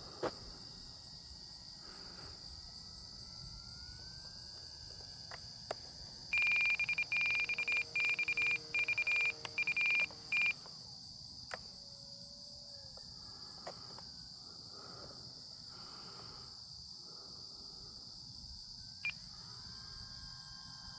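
Steady, high chorus of night insects such as crickets. About six seconds in, a loud, high-pitched tone pulses on and off for about four seconds.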